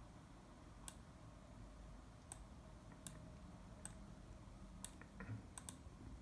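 Scattered single clicks at a computer, seven in all, spaced irregularly about a second apart, over faint room hiss.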